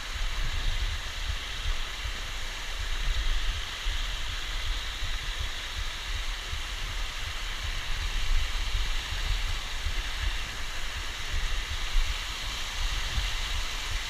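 Waterfall's falling water rushing in a steady hiss, with an uneven low rumble underneath.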